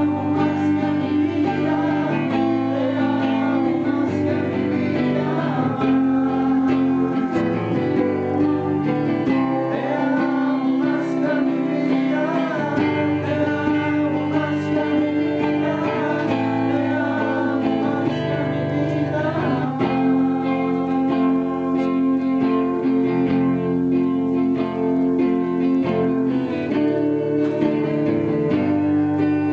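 Acoustic guitar strummed in steady chords, accompanying voices singing a Spanish-language praise song; the singing drops out about twenty seconds in and the guitar continues alone.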